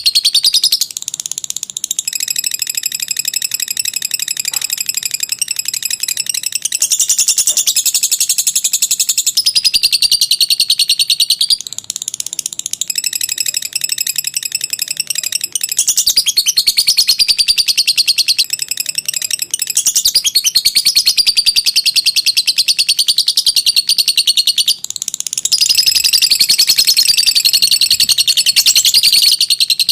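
Lovebird 'ngekek panjang': a long, rapid chattering trill, high-pitched and nearly unbroken, with a few short dips in loudness.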